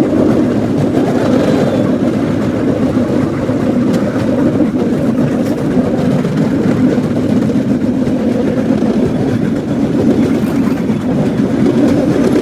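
Cambodian bamboo train (norry) running along the track: a steady, loud din from its small engine and its wheels on the rails.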